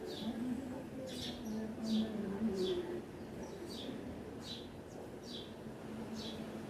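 A bird chirping repeatedly: short, high, downward-sliding chirps a little under a second apart. A low drone sounds under the chirps for the first three seconds and is the loudest part.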